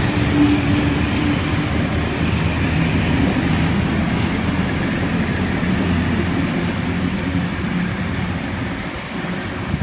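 Vintage passenger train's carriages rolling past on the rails: a steady rumble of wheels on track that eases off near the end as the last carriage draws away.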